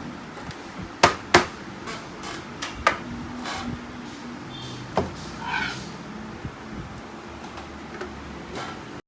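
Hard clicks and knocks of plastic printer parts being handled and fitted together: two sharp clacks about a second in, then lighter knocks and rattles.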